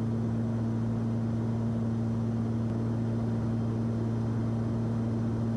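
Steady drone of a Cessna 340's twin piston engines and propellers, heard inside the cabin: a constant low hum with a steady, slightly higher tone over it.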